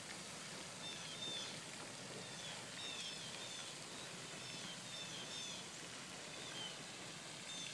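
Fountain water splashing steadily, with a bird repeating short, high chirps that slide downward, about one a second.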